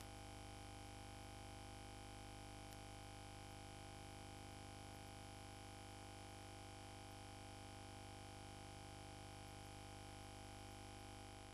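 Near silence: a faint steady hum and hiss from VHS tape playback, with no program sound.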